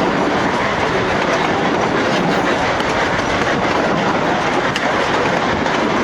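Durango & Silverton narrow-gauge train running, a loud steady rumble with wheels clattering on the rails.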